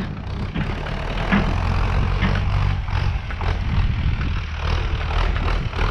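Renault 651 tractor's diesel engine running steadily under load as it pulls a tipping trailer loaded with logs, with scattered light knocks and rattles over the engine note.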